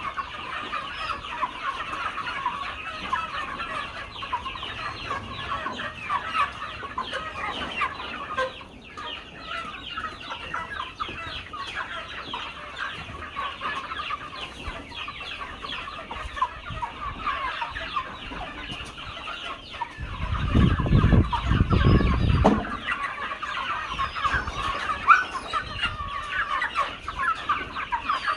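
A flock of chickens clucking, many birds calling at once in a steady, dense chatter. About twenty seconds in, a low rumble lasts for two seconds or so.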